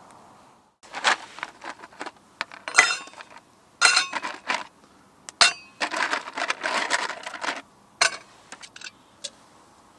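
Dishes and utensils clinking and clattering as they are handled, in a quick irregular run of knocks with a few clinks that ring briefly.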